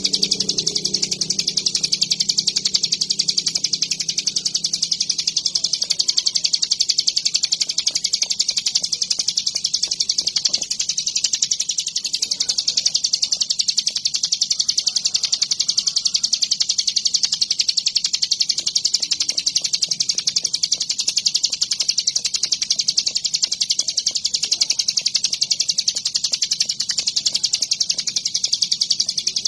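Bar-winged prinia (ciblek gunung) singing without a break, a fast run of high notes at a steady level.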